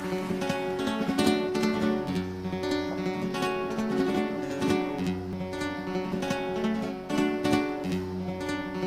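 Instrumental song introduction led by acoustic guitar, strumming chords over a bass line that repeats about every two and a half seconds.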